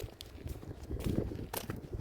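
Footsteps of a person walking, about two steps a second.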